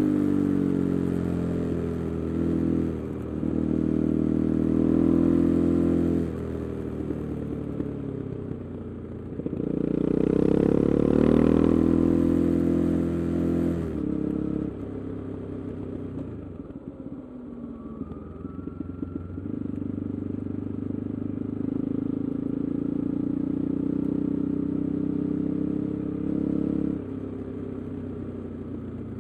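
KTM 390 Adventure's single-cylinder engine, running through an Arrow exhaust with the resonator removed, under way: the exhaust note rises and falls as the throttle is opened and closed, with a longer quieter stretch off the throttle about halfway through.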